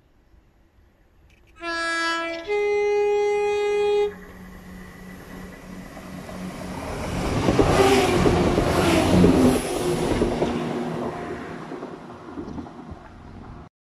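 Passenger train sounding a two-note horn, a short lower note and then a longer higher one, as it nears the station. It then runs through without stopping, loudest about eight to nine seconds in as it passes, and fades away.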